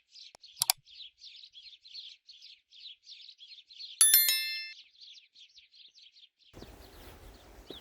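A bird chirping quickly and steadily, about five short notes a second, until a little after five seconds in. A sharp click comes about a second in, and a loud ringing metallic ding about four seconds in, which is the loudest sound. Near the end a steady rushing noise begins.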